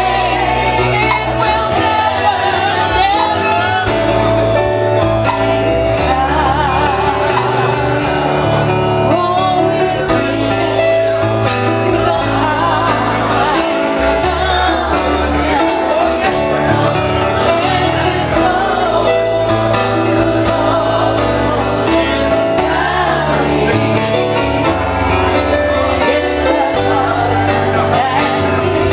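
Live gospel music: singing voices with vibrato over instrumental accompaniment, with steady bass notes and frequent percussion hits.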